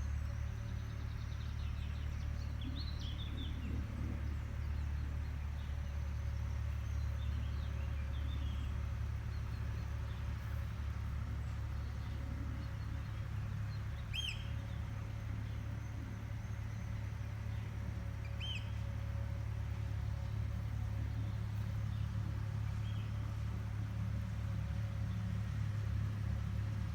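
Agricultural machine running steadily at a distance, a continuous low engine drone with a faint steady hum. A few short bird chirps come over it, the clearest about 14 and 18 seconds in.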